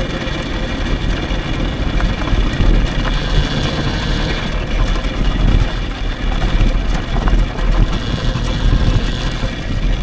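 Wind buffeting the microphone and rumble from riding an electric dirt bike over rough ground, with a faint steady high whine underneath.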